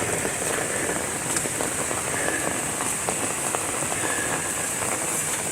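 Steady rain falling: an even hiss dotted with many small drop hits.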